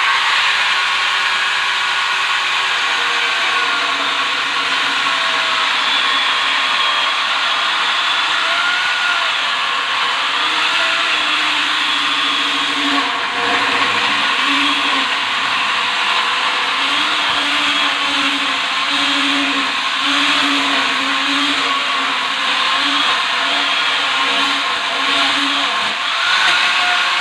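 Small electric mini chainsaw running continuously, its motor whine wavering up and down in pitch.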